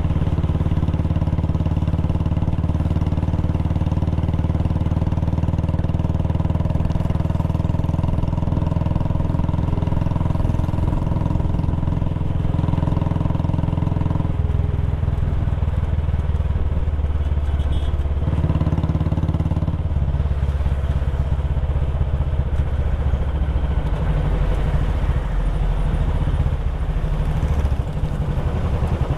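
Royal Enfield Classic 350 single-cylinder engine and exhaust running while the bike is ridden. The engine note drops about 14 seconds in and shifts again around 18 and 20 seconds in.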